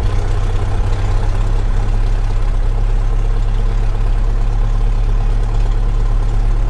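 Cessna 172's piston engine and propeller running steadily at idle just after start-up, a loud constant drone with a low hum.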